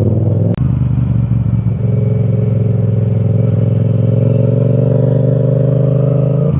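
Yamaha FZ-07 motorcycle's parallel-twin engine running under way. A sharp click comes about half a second in, then a steady engine note that rises slowly.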